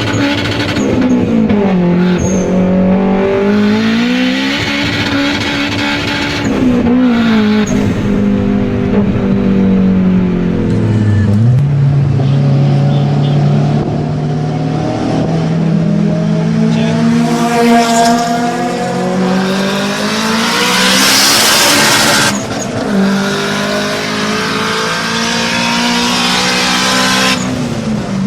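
Honda K20 2.0-litre inline-four engine revving hard, its pitch climbing and dropping again and again as it is driven through the gears. A loud rush of noise comes about three-quarters of the way through.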